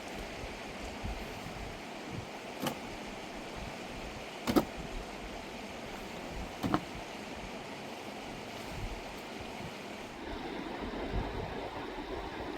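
Steady rushing of a mountain river, with three sharp knocks about two seconds apart, the middle one the loudest.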